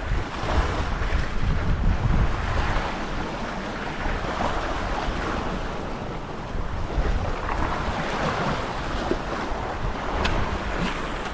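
Sea surf washing against shoreline rocks, swelling and easing every few seconds, with wind rumbling on the microphone.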